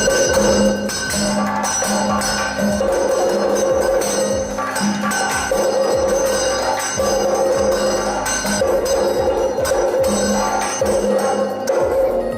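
Kathakali performance music: rapid percussion strikes with metallic ringing over held tones.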